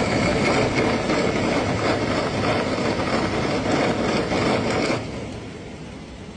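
Vehicle running with a loud, rough, even noise that drops off sharply about five seconds in.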